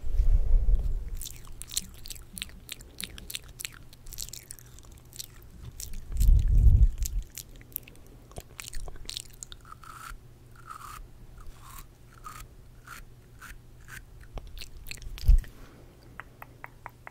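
Close-miked ASMR mouth sounds: a run of quick wet clicks and small pops from lips and tongue. Three loud, low muffled bursts come in, just after the start, around six seconds in, and briefly near the end.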